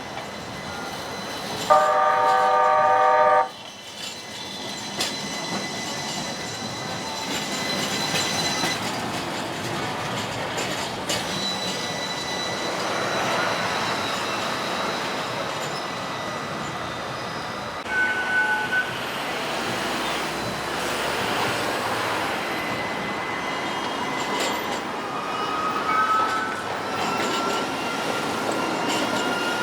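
A streetcar horn sounds once, a steady tone held for about a second and a half that cuts off sharply. The electric streetcar then runs with a steady rolling noise, and a thin wheel squeal rises slightly near the end.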